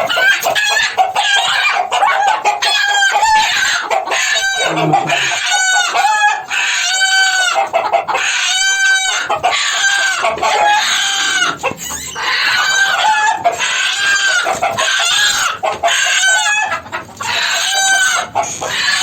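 Broody hen squawking and clucking loudly, call after call in an unbroken run, as she defends her eggs.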